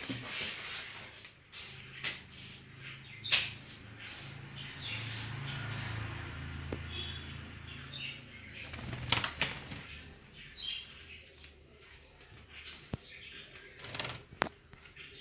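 Pet birds, a parrot and lovebirds, flapping and fluttering their wings, with scattered rustling, two sharp knocks about three and nine seconds in, and a few short faint chirps.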